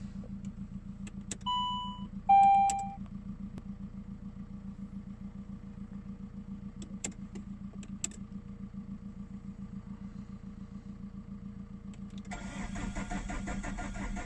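Two short warning beeps sound about two seconds in over a steady low hum, then a few light clicks. About twelve seconds in, the Saab 9-3's 1.9 TiD four-cylinder turbodiesel cranks and catches, settling into a cold-start idle at around freezing.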